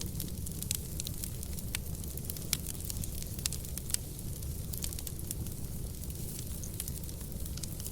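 Wood fire burning in a fireplace: a steady low rumble with irregular sharp crackles and pops from the burning logs, a few louder snaps in the first half.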